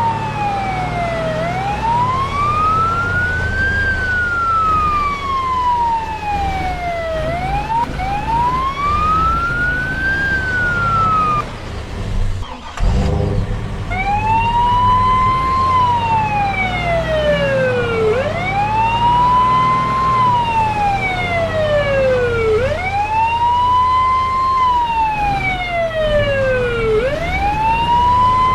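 Emergency vehicle siren wailing, its pitch rising and falling slowly about every six seconds. About halfway through it breaks off briefly and a second siren pattern takes over, sweeping up quickly and falling slowly about every four to five seconds. A low rumble runs underneath.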